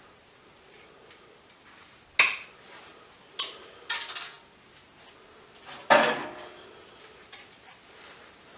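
Pieces of scrap metal clanking as they are handled and dropped: three or four sharp, ringing metal clanks, with a quick rattle in the middle, the loudest just after halfway.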